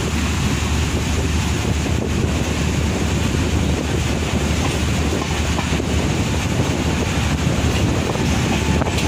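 Passenger train running at speed, heard from an open door of a coach: a steady rumble of wheels on the rails.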